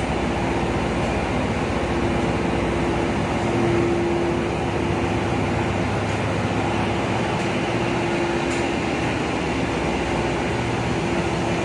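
Ship engine room machinery running: a loud, steady drone of pumps and ventilation with a constant hum tone through it.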